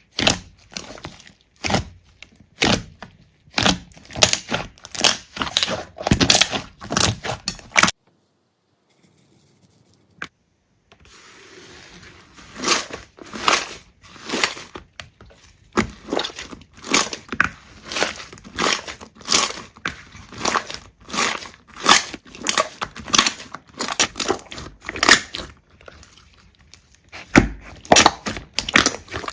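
Hands squeezing and poking slime, making a dense run of crackling clicks and pops. The sound drops to near silence for about three seconds about a third of the way in, then carries on.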